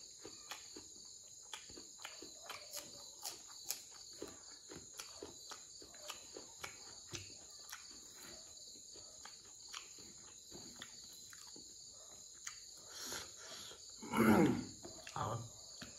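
Close-up eating sounds: many short, sharp chewing clicks and crunches over a steady background of crickets trilling. Near the end, a brief louder vocal sound falling in pitch.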